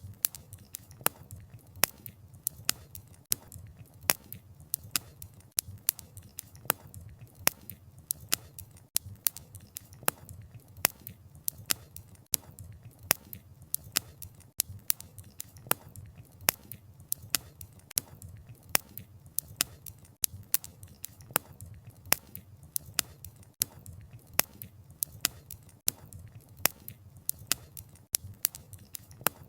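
Wood fire crackling, with sharp snaps and pops from the burning logs several times a second over a steady low rumble of the flames.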